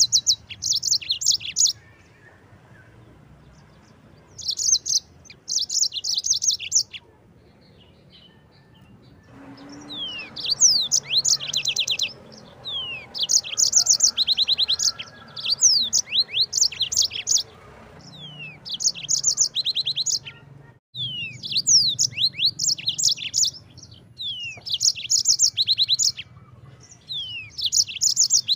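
Yellow-fronted canary (mozambique) singing in full song: phrases of fast, high trills and quick downward-slurred notes with short pauses between them. The song becomes denser and nearly continuous from about a third of the way in.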